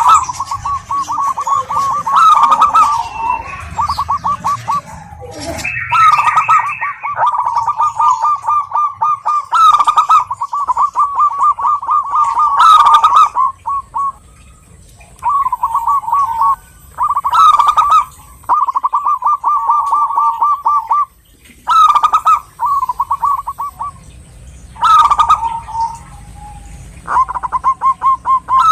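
Zebra dove (perkutut) singing: repeated phrases of rapid, staccato coos with short pauses between them.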